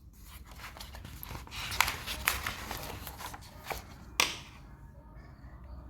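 Rustling handling noise with scattered small clicks, ending in a sharp click about four seconds in, then quieter room tone.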